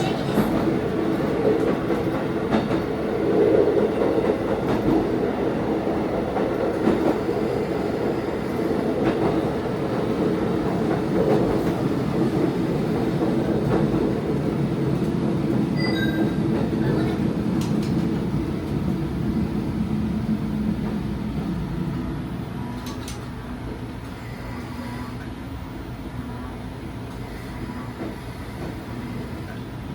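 Diesel railcar running along the track, heard from the front of the car: engine drone mixed with wheel and rail noise. The sound eases off and grows quieter about two-thirds of the way through.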